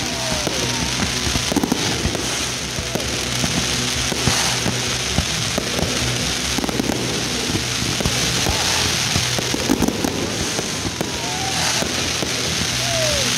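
Aerial fireworks display: continuous crackling with many sharp bangs from bursting shells, going on without a break.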